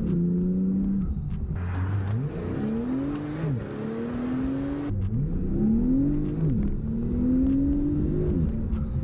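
Porsche 911 Turbo's twin-turbocharged flat-six accelerating hard through the gears, its pitch climbing and dropping back at each of about four quick upshifts.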